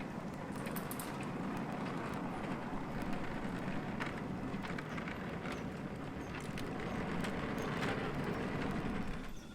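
A 5-inch gauge electric model locomotive and its wagons rolling along the track: a steady rumble with scattered clicks as the wheels pass over rail joints. The sound drops away about nine seconds in.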